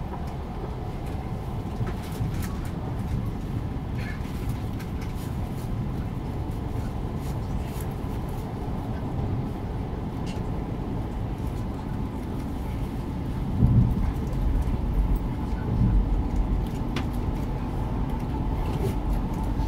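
Kintetsu 80000 series Hinotori electric train running through the underground tunnel section, heard from on board. Its wheels on the track make a steady low rumble with a faint steady hum, scattered light clicks, and a louder rumble surge about 14 seconds in.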